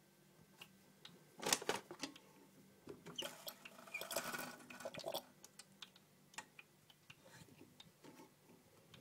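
Gaggia Classic espresso machine's grouphead giving off irregular clicking and ticking, with a loud cluster of clicks about a second and a half in and a denser crackling stretch in the middle, over a faint low hum.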